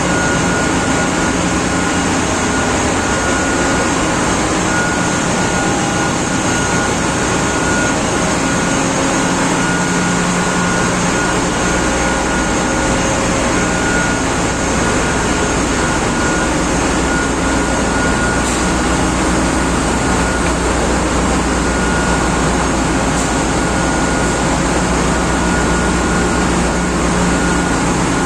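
Ship's engine room machinery running: a loud, steady din with a constant high whine over it, the deep hum growing stronger about twelve seconds in.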